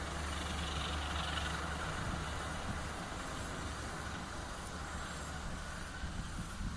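Passenger train rolling away on the rails, a steady rumble of wheels on track slowly fading. A low hum underneath drops away about two seconds in.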